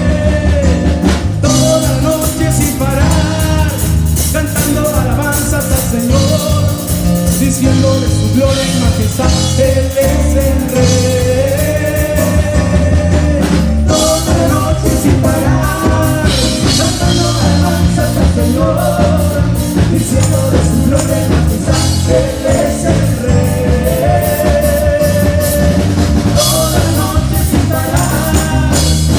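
Live rock-style band with drum kit, bass and guitar playing an instrumental passage, a held melody line over the rhythm.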